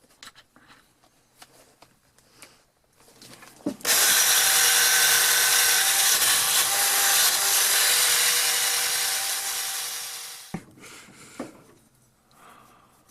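Motor-driven polishing wheel buffing a vintage steel auger bit pressed against it: a loud, steady rushing noise with a motor whine. It starts abruptly about four seconds in, eases slightly and stops suddenly at about ten and a half seconds. Light handling clicks come before and after.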